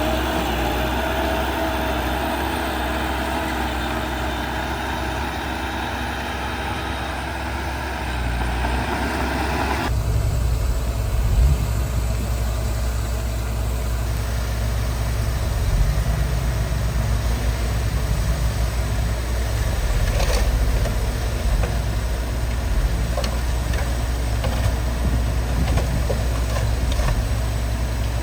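Diesel engine of heavy earthmoving machinery running steadily. About ten seconds in, the sound changes abruptly to a deeper, heavier low rumble.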